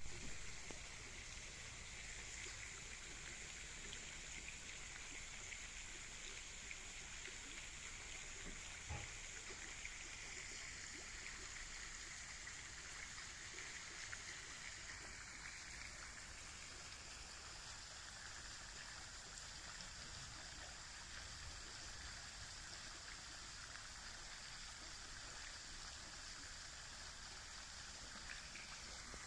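Steady faint hiss of running water, with one soft low thump about nine seconds in.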